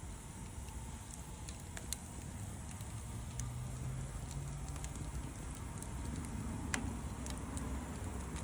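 Wood fire crackling, with scattered sharp pops (one louder pop late on), over a steady low rumble.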